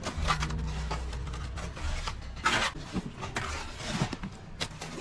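Plastering trowel scraping across wet plaster or mortar in a series of irregular strokes, the loudest about halfway through, over a low hum.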